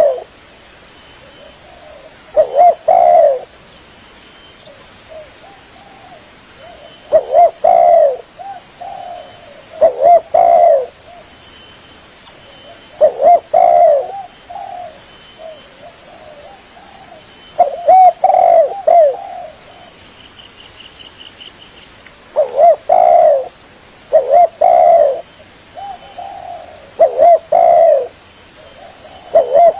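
Spotted dove (tekukur) cooing: short phrases of low, pitched coos, repeated every few seconds with quiet gaps between.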